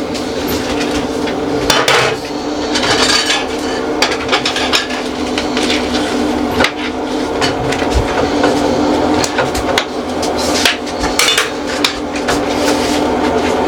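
Repeated knocks and clatter of containers and dishes being handled and set down, over a steady hum.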